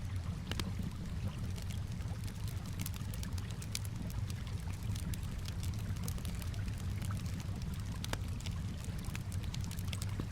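Wood fire crackling with many scattered sharp pops over a steady low rumble, mixed with calm water sounds.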